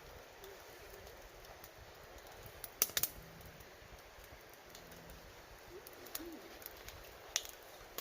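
Campfire firewood crackling, with scattered small ticks and a few sharp pops: a cluster about three seconds in and another loud pop near the end.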